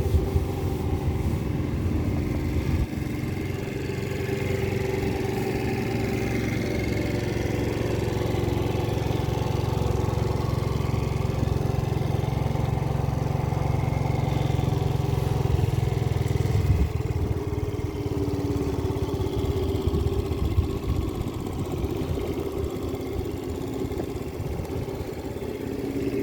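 Small motorbike engine running steadily at idle, a continuous low hum that thins out about two-thirds of the way through.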